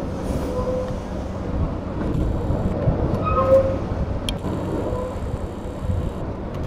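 JR Shikoku 8600 series two-car electric train rolling slowly over the rails and pointwork, wheels rumbling steadily, with a few short squeals and a sharp click.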